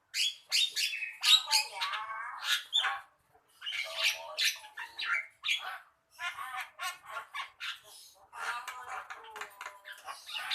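Javan myna singing: a rapid run of varied harsh squawks, chattering notes and whistles in phrases, with brief pauses about three and six seconds in.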